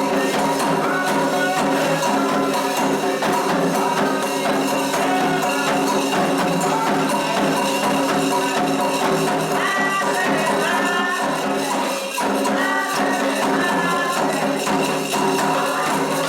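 Candomblé ritual music for Xangô: voices singing over dense hand percussion with a jingling, shaken rhythm.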